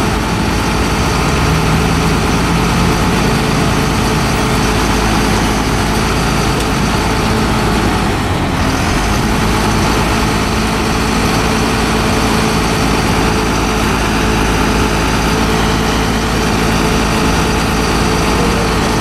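A motor vehicle's engine running steadily with continuous road or cabin noise.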